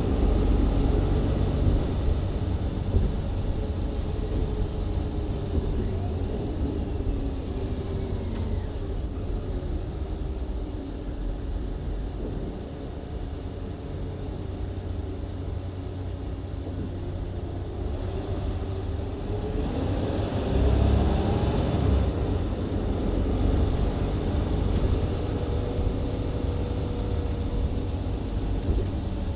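Diesel engine and Voith automatic gearbox of a Mercedes-Benz Citaro C2 LE hybrid bus, heard from inside the cabin while driving. The engine note falls gradually during the first ten seconds or so. About twenty seconds in it rises and grows louder as the bus accelerates again.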